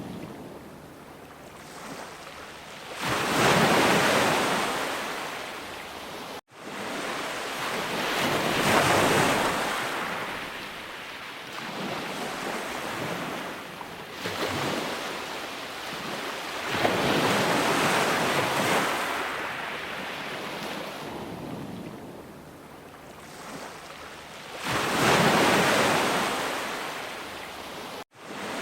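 Ocean waves breaking and washing on the shore, the surf swelling and fading in slow surges every several seconds. The sound cuts out for an instant twice, about six seconds in and near the end.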